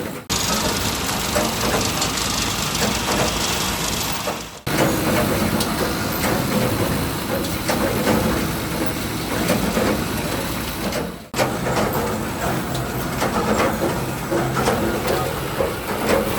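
Steady workshop machinery noise, a dense mechanical rumble and hiss, with three brief sharp dropouts: just after the start, about four and a half seconds in, and about eleven seconds in.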